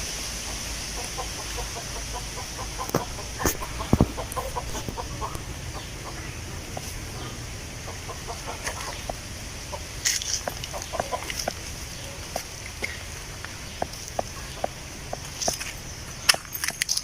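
Outdoor ambience of wind through tree leaves: a steady high hiss with many scattered light clicks and ticks. Short animal calls come through now and then, with a cluster about 8 to 11 seconds in.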